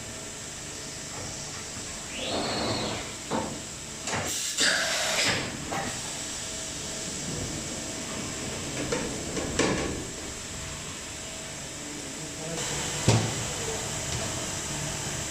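Steady hum from a horizontal machining center and its shop, broken by several bursts of hissing air and sliding, door-like noises, with a sharp thump near the end.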